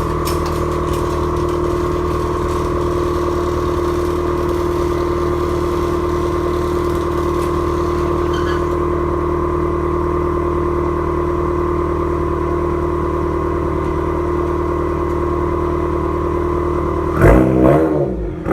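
Subaru WRX turbocharged flat-four running at a steady speed through a catless exhaust with no mufflers, loud and even. Near the end the engine is revved twice in quick succession, its pitch rising and falling.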